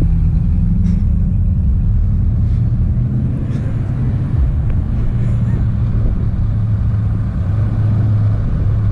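A motor vehicle's engine running with a steady low rumble, its pitch settling slightly lower partway through.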